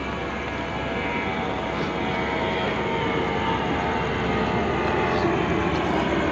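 The diesel engine of a standing passenger train running steadily: a continuous drone with a high whine that grows slowly louder.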